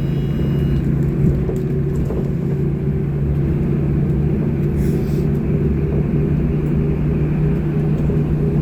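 Interior of a Sinara-6254.00 trolleybus under way: a steady low rumble from the road and running gear with a constant hum from the electric traction drive. A faint high whine stops about a second in.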